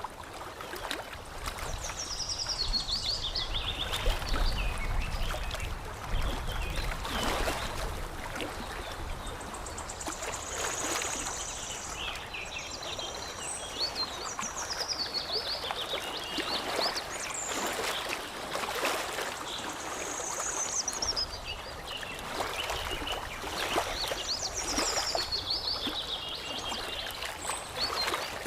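Water lapping and trickling in an uneven wash, with small splashes. Over it, songbirds sing short high phrases of quick notes that step down in pitch, repeated every several seconds.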